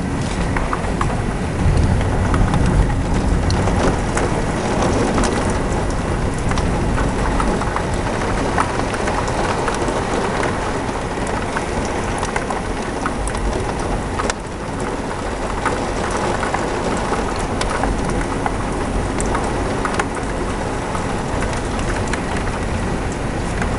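Heavy rain falling steadily in a severe thunderstorm, with scattered close drop ticks and a stronger low rumble in the first few seconds.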